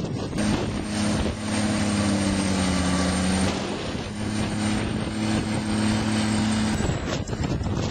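Heavy diesel tractor engines pulling earthmoving scrapers, running steadily under load before fading near the end.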